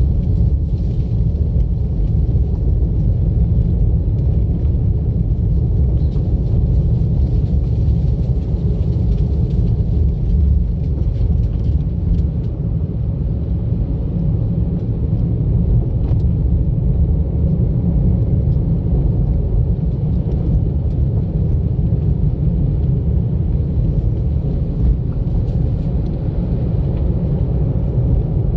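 Steady low rumble of a car driving along a road: engine and tyre noise with no breaks or sudden events.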